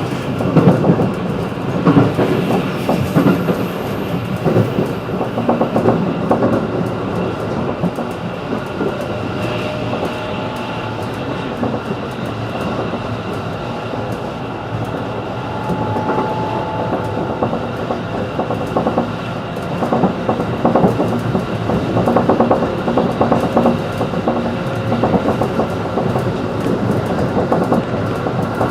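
JR 211 series electric train running at speed, heard from inside the carriage: a steady rumble with the clickety-clack of wheels over rail joints. It grows louder for the first few seconds and again from about twenty seconds in.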